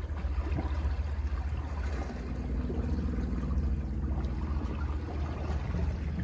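Sea waves washing against rocky cliffs: a steady low rumble and wash of water. A faint, steady, low hum joins in about two seconds in.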